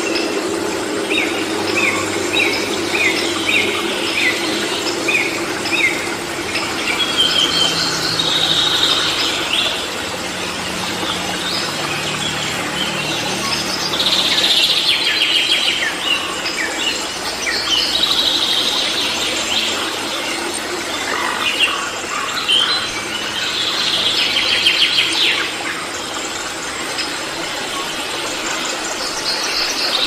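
Forest soundscape with birds calling: a run of short, quickly repeated falling notes in the first few seconds, then loud trilling calls that come back again and again.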